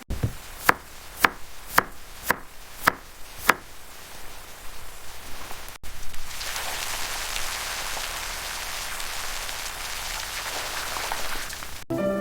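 A knife chopping on a cutting board: about six even strokes, roughly two a second, that stop after three and a half seconds. Then, from about six seconds in, a steady hiss.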